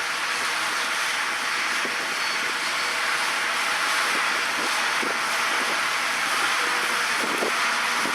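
John Deere 8R-series tractor pulling a peanut combine through the field, running steadily, with light rattling from the machinery.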